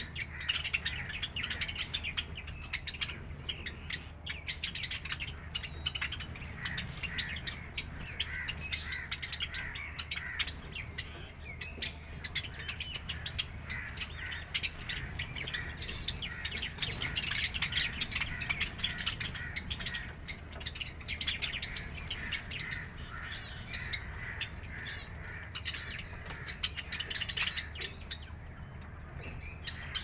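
Many small caged birds, Java sparrows, chirping continuously with their short calls overlapping, over a steady low hum.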